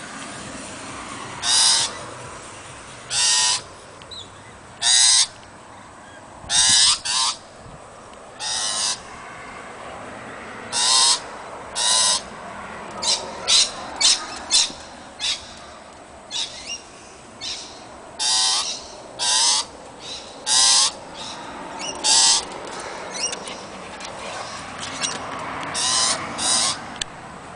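Birds in a tree giving short, harsh, screechy calls over and over, about one every second or two.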